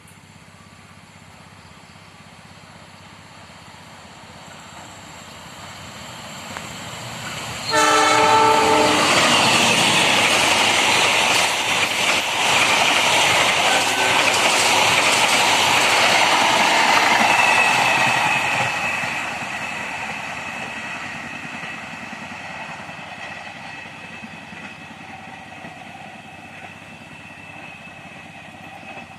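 A train approaches, sounds a short horn blast about a quarter of the way in, then passes at speed with about ten seconds of loud rumbling and wheel clatter before fading away.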